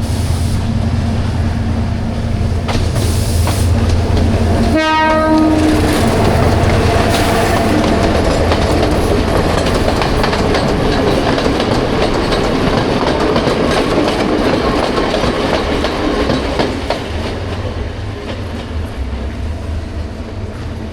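Passenger train running, a loud steady rumble with wheels clattering over the rails. About five seconds in the train's horn sounds once for about a second.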